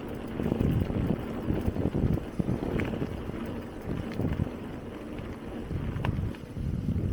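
Bicycle tyres rolling over a forest dirt track, with an uneven low rumble and wind buffeting the microphone. There are a few sharp clicks, about three, scattered through the ride.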